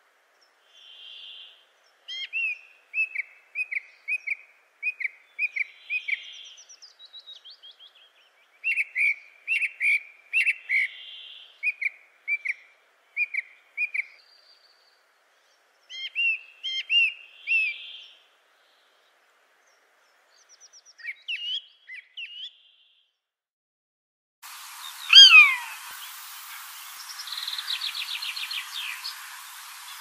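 Birds calling: runs of short, high chirps, with soft breathy notes in between. Near the end the background turns hissy and a louder call falls sharply in pitch, followed by a rapid trill.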